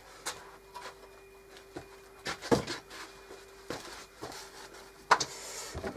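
Hands rubbing and handling wooden pieces, with scattered light knocks and a longer rub near the end, over a faint steady hum.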